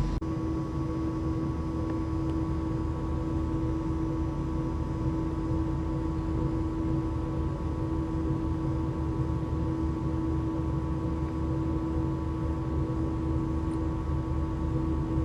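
Ship's machinery humming steadily on board a coastal passenger ship: a low rumble with a constant droning tone, unchanging throughout.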